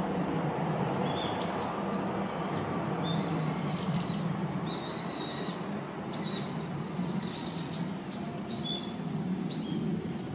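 Japanese white-eye giving short, high chirping calls, one or two a second in a loose series, over a steady low background hum.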